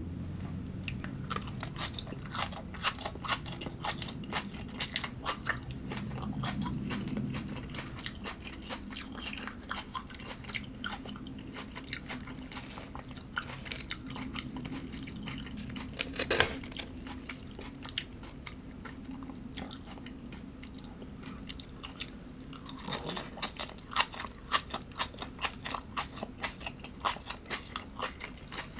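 Close-up chewing and biting of food, with a dense run of crisp crunches and one louder sharp crack about 16 seconds in.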